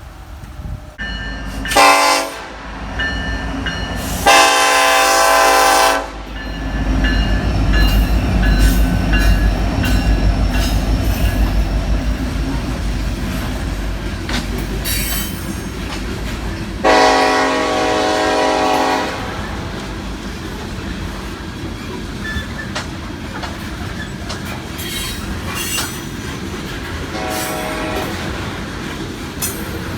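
CSX freight train passing, its locomotive air horn sounding four blasts: a short one, two long ones, then a short one near the end. Between the blasts there is a steady low rumble with wheel clatter on the rails.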